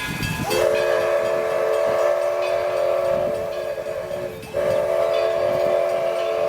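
Steam locomotive whistle blowing a chord of several notes: a long blast starting about half a second in, a brief break about two-thirds of the way through, then a second long blast.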